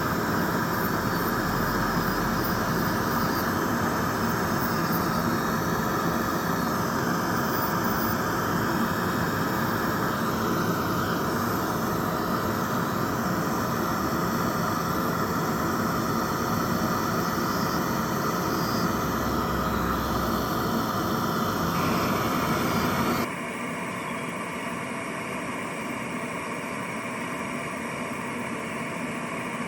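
Electric nail drill running steadily while filing off gel, with one steady tone over a noisy hiss. About 23 seconds in, the sound drops abruptly to a quieter steady hum.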